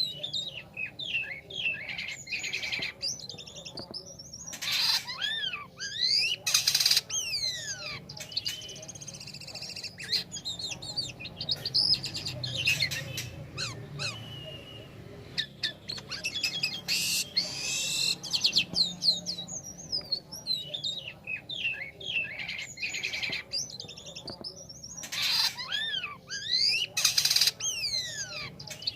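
Jalak kapas (starling) singing a long, varied song of quick up-and-down whistles and chatter, broken several times by short harsh rasping notes. Its song is used as a lure recording to spur other songbirds into singing.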